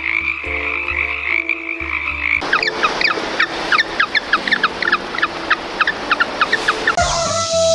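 Frogs calling: first low pulsing croaks under a steady high trill, then, after a change about two seconds in, a dense chorus of short, quick descending chirps. Near the end a rooster begins to crow.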